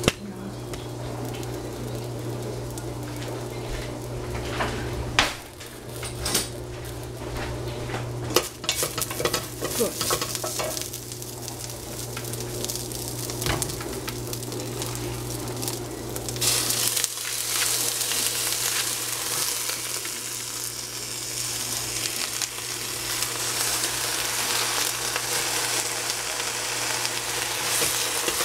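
Stir-frying in a hot pan: knocks and clatter of utensils over a steady low hum, then about 16 seconds in a loud sizzle starts suddenly and keeps going as food hits the hot oil and is stirred.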